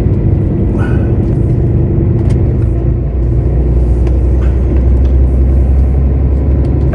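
Lorry's diesel engine running steadily on the move, a loud low drone with a rumble, and its pitch shifting about four seconds in.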